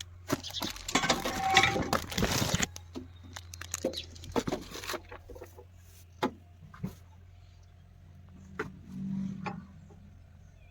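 Tractor air filter being handled: a burst of rustling and crinkling about a second in, then scattered clicks and knocks of hands on the filter housing, over a steady low hum.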